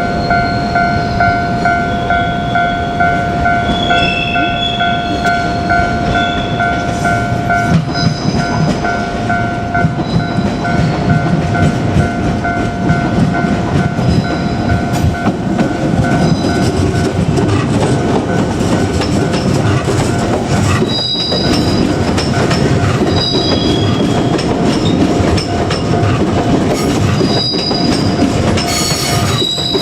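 Japanese level-crossing alarm ringing steadily, drowned out from about 8 seconds in by a JR Kyushu 817 series electric multiple unit running over the crossing. The train's passage is a loud rumble with wheels clacking over rail joints and brief high wheel squeals.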